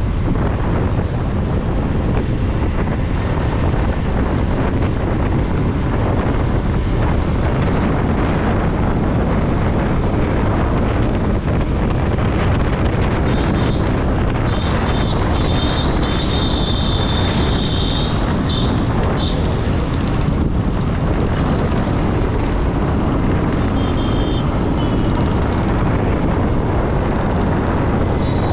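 Motorcycle riding along a road: steady engine and road rumble heavily masked by wind buffeting the microphone. Near the middle a high-pitched intermittent beeping runs for several seconds, with a short burst again near the end.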